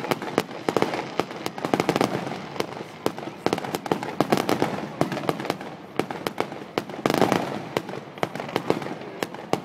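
Aerial fireworks bursting in a rapid, irregular string of bangs and crackling pops, with denser swells of crackle now and then.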